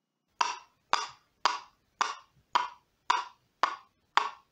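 Coconut shell halves knocked together to imitate a donkey's hooves: eight clops at an even walking pace, about two a second.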